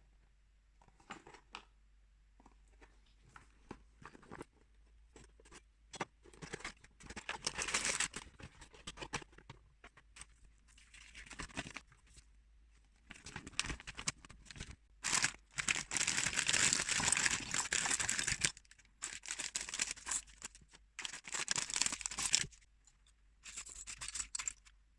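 Plastic bags of building bricks crinkling and being torn open, in several rustling stretches with small clicks in between; the longest stretch falls in the middle.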